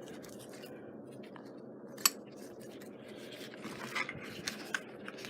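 Small handling clicks from craft materials and tools being worked on a tabletop: one sharp click about two seconds in and a few softer ticks near the end, over a low steady hiss.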